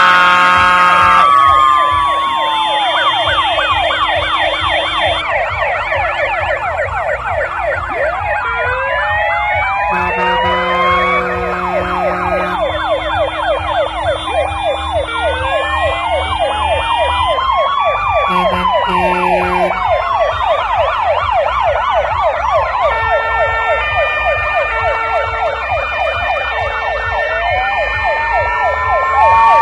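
Several fire engine sirens sounding at once. Fast yelping sweeps, slower rising and falling wails and stepped two-tone hi-lo tones overlap, over a low pulsing rumble.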